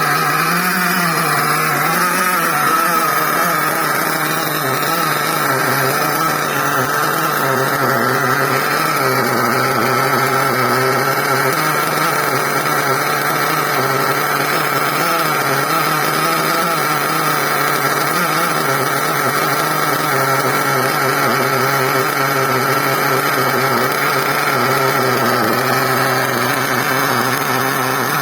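4.6 cc nitro glow engine of a 1/10 RC monster truck idling steadily during break-in; the owner says its glow plug needs changing.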